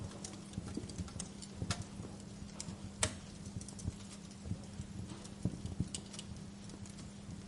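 Wood fire crackling in a fireplace: irregular pops and snaps over a steady hiss, the sharpest pop about three seconds in.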